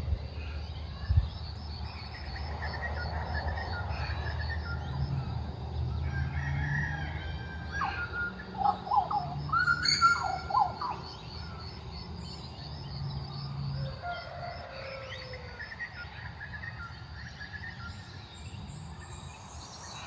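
Birds calling at dawn, loudest in a cluster of short whistled notes that rise and fall, about halfway through, with fainter calls before and after. A fast, regular high-pitched trill runs underneath.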